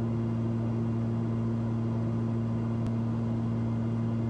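Steady cabin drone of a Cessna 340's twin piston engines and propellers in cruise descent, an even low hum with a few fixed tones that do not change in pitch or level.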